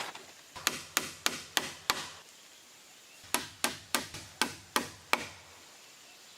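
A hand tool striking wood in two runs of quick, sharp blows: five strikes, a pause of about a second, then six more, about three a second.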